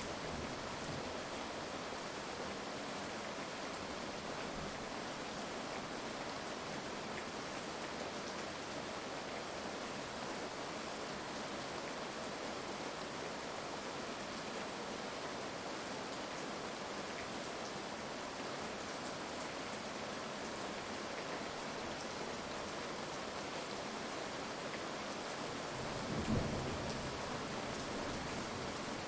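Heavy rain falling steadily, with one short, low rumble of thunder near the end.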